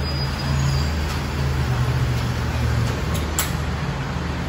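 Steady low drone of a diesel passenger train rolling slowly along a platform, with an even rushing noise over it. A single sharp click comes about three and a half seconds in.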